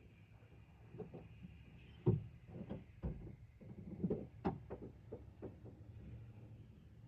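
A quick run of knocks and clunks over the low steady hum of an idling truck.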